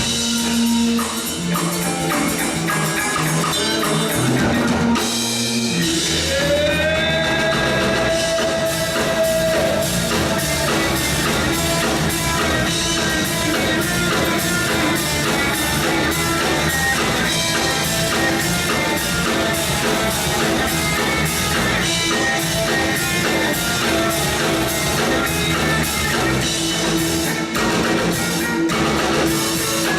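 Rock band playing live, an instrumental passage of drum kit and electric guitars with a steady beat; about six seconds in a held note slides up and then sustains.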